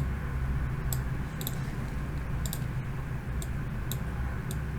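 Faint light clicks, about one or two a second and unevenly spaced, over a low steady hum.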